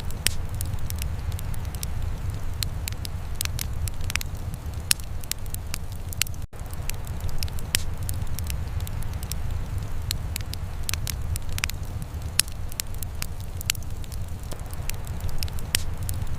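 Wood fire crackling: irregular sharp pops and snaps over a steady low rumble, with a split-second break in the sound about six and a half seconds in.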